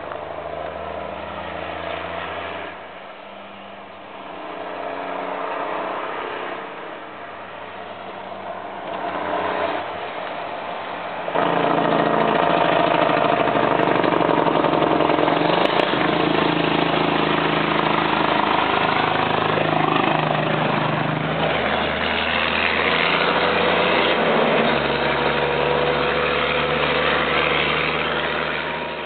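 Turbocharged Cummins diesel in a 1974 Western Star dump truck, running through a 6-inch straight exhaust with no muffler. It rises and falls at first, then about eleven seconds in it suddenly gets much louder and stays loud, with shifts in pitch, until it drops away right at the end.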